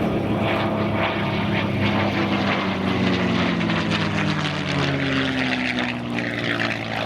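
P-51 Mustang's Packard Merlin V-12 engine and propeller running at high power in flight, with the engine note falling in pitch from about three to six seconds in.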